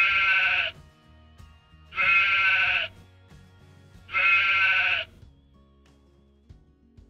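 A sheep bleating three times, about two seconds apart, each bleat just under a second long, over quiet background music.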